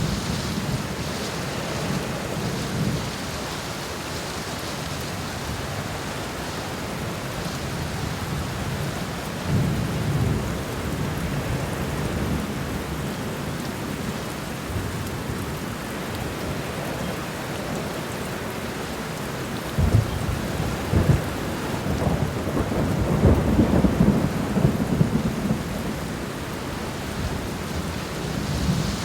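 Steady rain falling on ground and leaves, an even hiss throughout. Low rumbles of thunder swell up about ten seconds in and again, louder, for several seconds starting about two-thirds of the way through.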